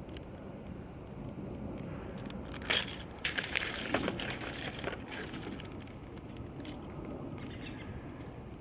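Rustling, crackling handling noise with a sharp click about three seconds in.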